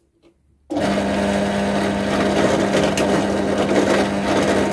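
An electric motor on a freshly bolted-down workshop machine switches on under a second in and runs loud and steady, with one constant tone.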